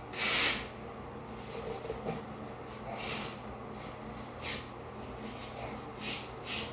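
Trowel scraping and packing dry-pack shower pan mortar, in short strokes: about five scrapes at irregular intervals.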